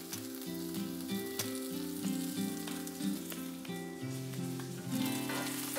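Sliced onion, garlic and ginger sizzling in hot chili oil in a pan, a steady crackling fry, under light background music.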